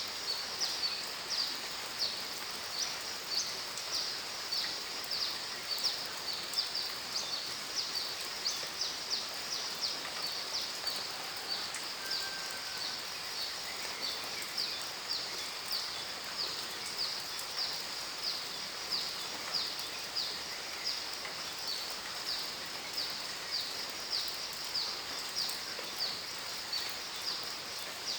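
High-pitched chirping from a calling animal, repeated evenly about twice a second throughout, over a soft, even hiss of rain.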